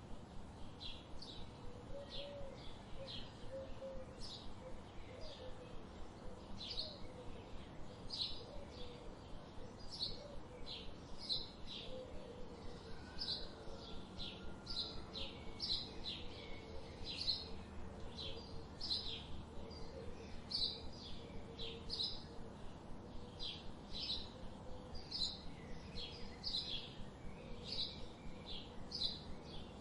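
A bird chirping over and over, short high chirps about two a second, with a fainter lower wavering call underneath and light outdoor background noise.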